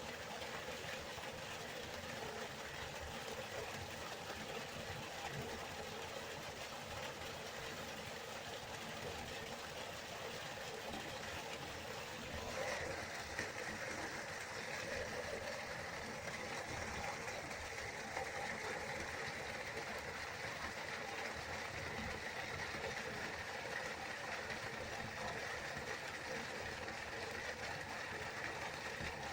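Waterfall rushing steadily, an even hiss of falling water with no breaks; about twelve seconds in it turns a little brighter and hissier.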